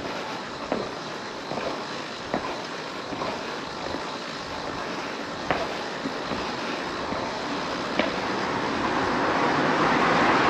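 Wind and road noise rushing over the microphone of a moving motorcycle, with a few light clicks. Near the end it grows louder and the low note of the motorcycle engine with its Scorpion full exhaust starts to come through.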